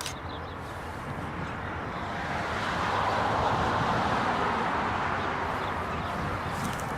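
A passing vehicle: a rushing noise that swells about two seconds in, peaks, then slowly fades.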